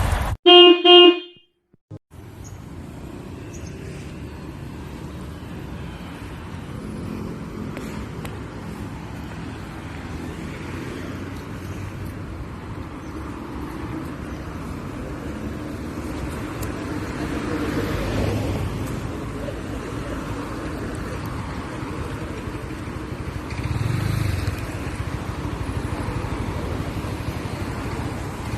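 A single loud horn toot, under a second long, then steady street traffic noise, with vehicles passing now and then.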